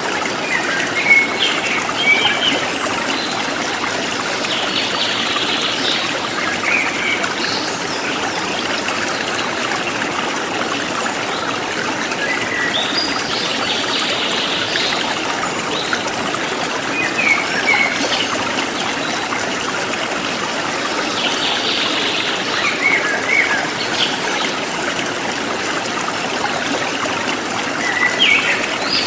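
Forest stream flowing steadily, with small birds chirping in short phrases every few seconds.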